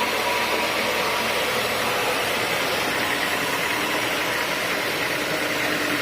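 Sawmill running steadily while sawing through a teak stump: an even, continuous machine noise with faint steady humming tones.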